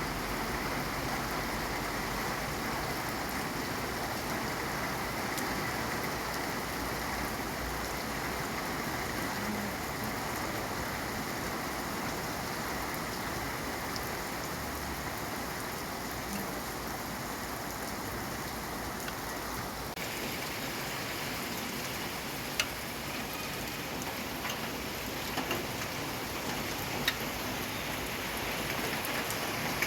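Steady rain falling, an even hiss of many drops. A few sharp single ticks, the loudest two about three quarters of the way through, stand out now and then.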